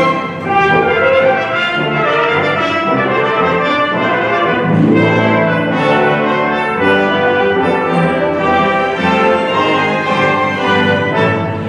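Symphony orchestra playing a medley of Christmas bell carols, with the brass section to the fore over the strings; low brass notes come in about five seconds in.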